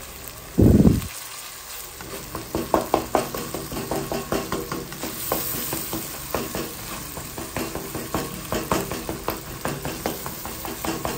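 Tomato masala sizzling in oil in a kadai while a plastic spatula scrapes and mashes it against the pan, with scraping strokes about two a second. A single loud low thump comes about a second in.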